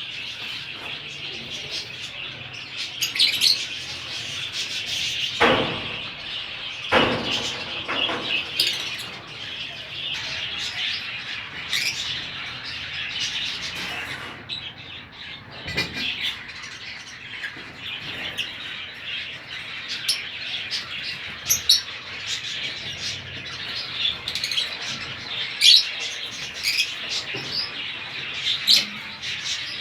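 Lovebirds chattering, a dense, continuous stream of short high chirps and twitters, with a few sharp knocks in between.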